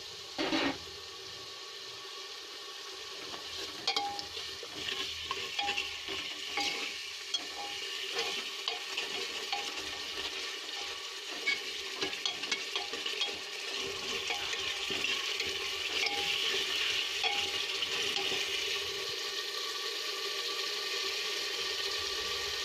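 Onion-ginger-garlic and spice masala sizzling in a metal pot, a little water having just been added, while a steel ladle stirs and scrapes it with scattered clicks. The sizzling grows a little louder in the second half.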